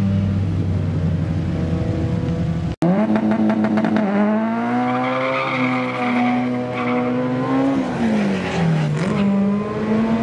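Car engines running hard on a track; after an abrupt cut about three seconds in, a car launches with its tyres squealing and spinning, the engine revving high and holding, then dropping briefly and climbing again near the end.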